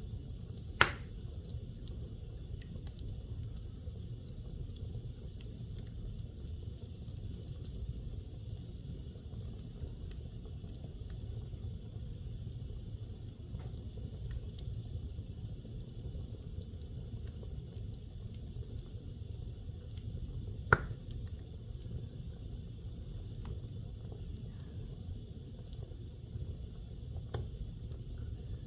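Fire burning in a fireplace: a low steady rush with scattered small crackles, and two sharp pops, one about a second in and one about twenty seconds in.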